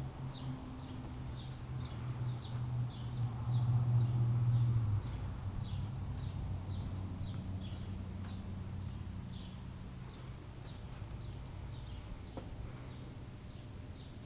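A small bird chirping over and over, about two short high chirps a second, over a low hum that swells about four seconds in and then drops back.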